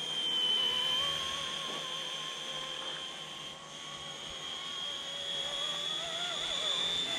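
Small electric RC helicopter in flight: a steady high-pitched motor and rotor whine whose pitch wavers slightly as it manoeuvres, loudest about a second in.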